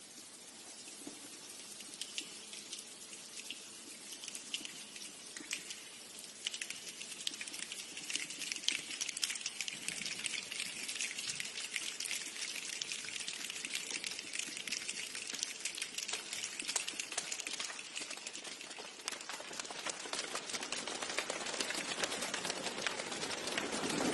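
A group of people imitating rain with their hands: a dense patter of many small snaps and clicks over a hiss, growing steadily louder and thicker like a shower building up.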